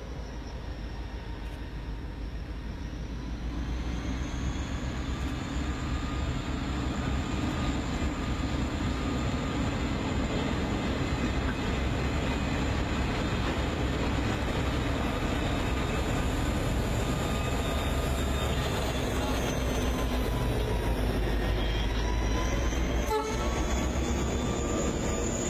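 Norfolk Southern SD40-2 diesel-electric locomotive's EMD 16-cylinder two-stroke engine working hard while it shoves a work train upgrade. The heavy rumble grows louder over the first few seconds and then holds steady, with a single sharp knock near the end.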